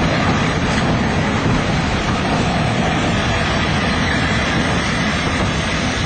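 Passenger coaches of an arriving heritage steam train rolling past on the track: a loud, steady noise of steel wheels on the rails.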